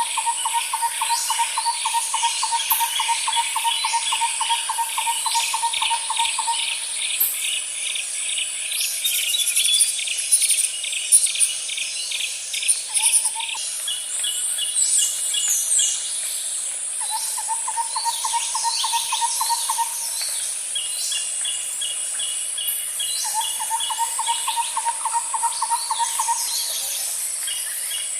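Birds and insects calling together: runs of quick, low repeated notes that start and stop every few seconds, higher chirping trills over them, and a steady high insect drone underneath.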